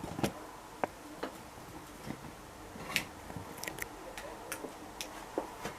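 Scattered light clicks and taps of a cardboard box and its packaging being handled and pulled open, at an uneven pace.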